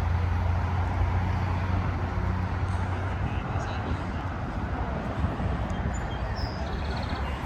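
A car engine running with a steady low hum that fades away about three seconds in, over a constant outdoor background of people talking.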